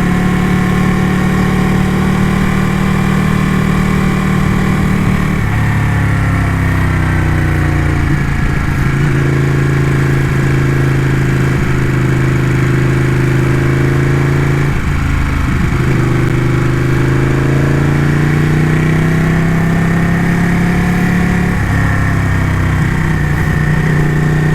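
Ducati motorcycle engine running under way on a winding road. Its pitch holds steady, then drops a few seconds in, with two short breaks as the throttle is eased or a gear changes, and climbs again near the end.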